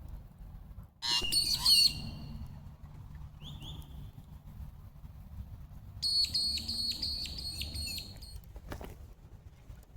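Wild birds calling: a loud burst of chirping about a second in, then a rapid run of repeated high notes for about two seconds, at about five a second.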